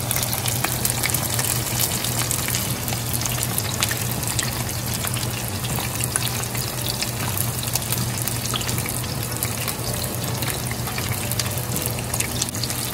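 Breaded chicken breasts shallow-frying in hot oil in a cast-iron skillet: a steady sizzle with many small crackles and pops.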